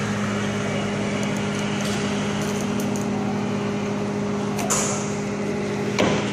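Microwave oven running with a steady electrical hum as it heats a bar of soap inside. Two sharp clicks stand out, one just under five seconds in and a louder one about a second later.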